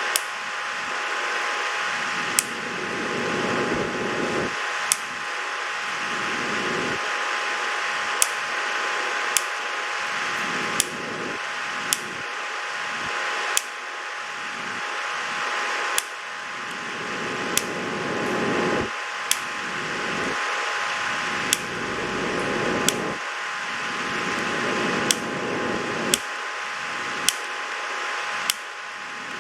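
A steady fan-like whir with a faint steady hum, broken about every one to two seconds by a sharp click. At each click the level drops abruptly and then creeps back up.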